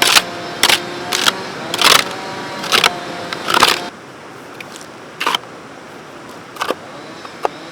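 A run of sharp knocks, about six in the first four seconds, over a faint steady hum. About four seconds in the hum stops, and a few fainter, scattered knocks follow.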